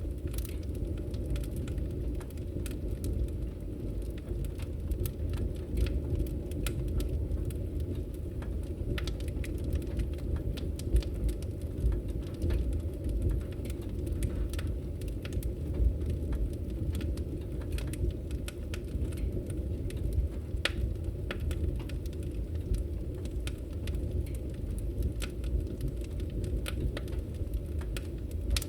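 Fire in a fireplace crackling: frequent scattered pops and snaps over a steady low rumble of the flames.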